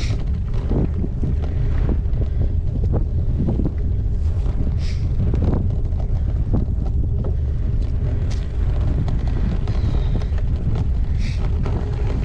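Wind buffeting the action camera's microphone on a moving gravel bike, a steady low rumble, with scattered clicks and rattles from the bike running over a rough track.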